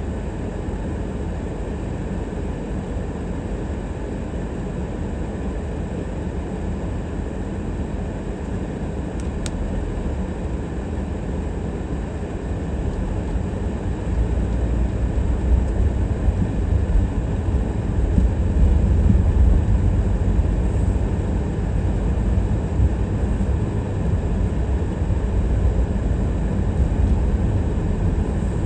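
Steady rumble of a car driving, engine and tyre noise, growing louder about halfway through.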